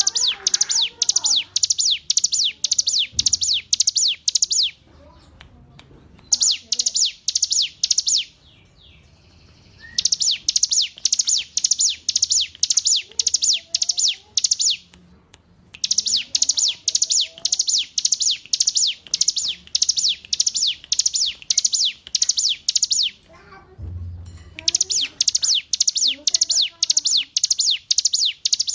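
Ciblek gunung (a prinia) singing: long trains of sharp, high, evenly repeated notes, about three a second, in phrases of several seconds with short pauses between them.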